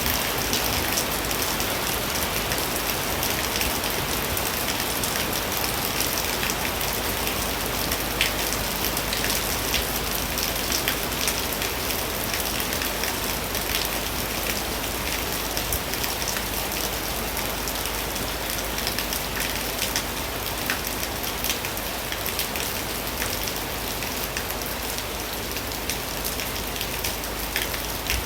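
Heavy rain falling steadily, a dense even hiss dotted with many sharp ticks of drops striking a surface.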